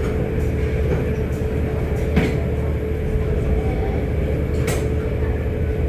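Penn oscillating steam engine of a paddle steamer running steadily: a constant low rumble with a thin steady tone over it, and a couple of sharp clicks about two and four and a half seconds in.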